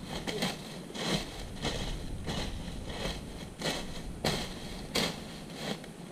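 A run of short crunching knocks, roughly two a second and unevenly spaced, over a low steady rumble.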